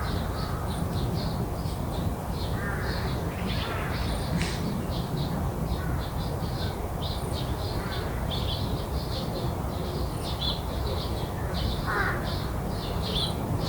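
Garden birds calling: a small bird chirps high and quickly over and over, and a few harsher, louder calls break in, about three seconds in and again near the end, over a steady low rumble.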